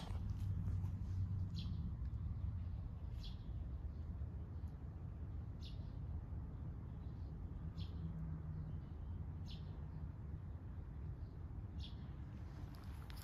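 Small bird chirping: about six short, high calls spaced a second or two apart, over a steady low rumble.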